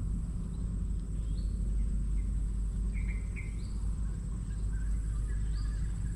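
Outdoor ambience: a steady low rumble underneath, with a bird giving short rising chirps every second or two.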